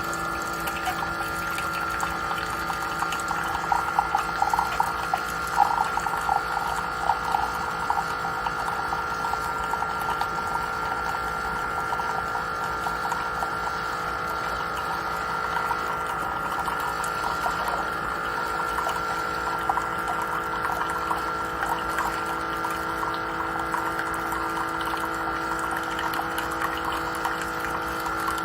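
Keurig K-Mini Plus single-serve coffee maker brewing: its pump hums steadily while water gurgles through the pod, with a spell of crackly sputtering for the first several seconds.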